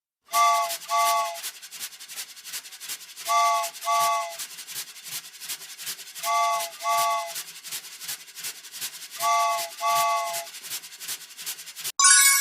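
Cartoon train sound effect: a fast, even chugging clatter, with a three-note train whistle giving two short toots about every three seconds. A bright chime sounds near the end.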